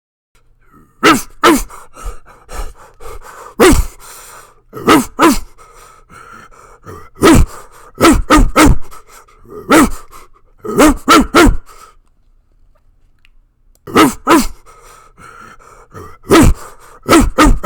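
Large dog barking deeply and aggressively: loud barks, each falling in pitch, singly and in quick runs of two to four, with a pause of about two seconds partway. A faint steady hum lies under the barks.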